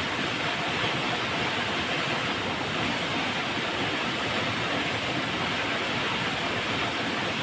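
A flowing river, its water rushing in a steady, even hiss with no breaks or changes.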